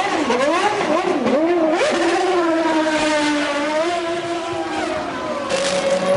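1999 Formula 1 car's 3-litre V10 engine running at low pit-lane revs: the revs swing up and down for about two seconds, then hold steady and sag slightly. A burst of hiss comes in near the end.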